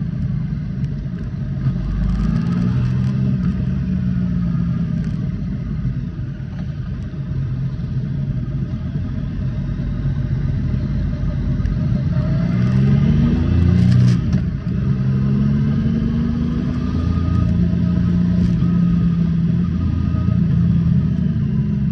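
Triumph Speed Triple S 1050's inline three-cylinder engine running under way, its revs rising and falling as the bike accelerates and eases off, with a sharp dip in pitch at a gear change about fourteen seconds in.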